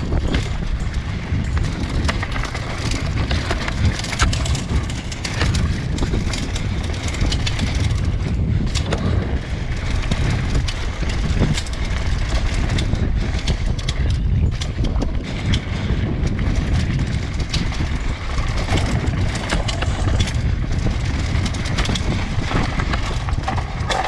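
Mountain bike ridden down a rough dirt trail: continuous rumble of knobby tyres over ground and roots, with constant rattling and clattering from the bike.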